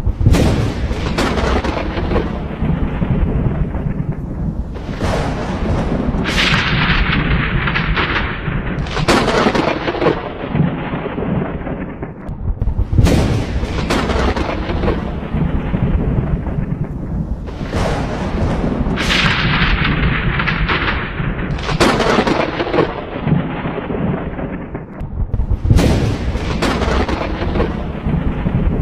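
Thunderstorm: thunder rumbling without a break, with a sharp crack every few seconds that fades back into the low rumble, over steady rain.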